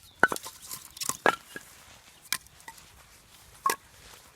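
Dry sticks cracking and knocking as they are broken and stacked for a campfire: five or six sharp separate cracks, the loudest two in the first second and a half.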